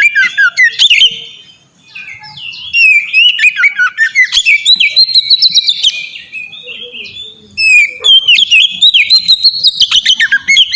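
Oriental magpie-robin (kacer) singing a long, varied song of rapid whistled and chattering phrases, with a short lull about two seconds in and a quieter stretch around seven seconds before it picks up again.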